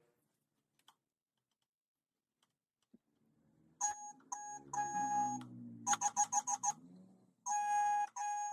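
Electronic beeping tone, steady in pitch: a long beep, a short one and another long one, then a quick run of about half a dozen pulses, then two more long beeps near the end. Under the first beeps runs a lower, wavering hum.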